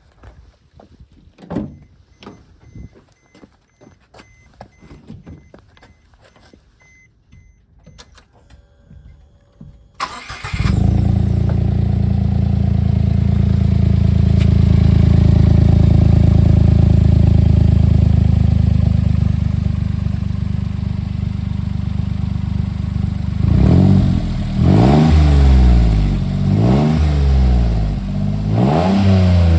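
Suzuki Super Carry kei truck's three-cylinder engine, breathing through a Virus Win titanium side-exit muffler, started after some light clicks and taps, then idling steadily and loudly. Near the end it is blipped several times, the exhaust note rising and falling with each rev.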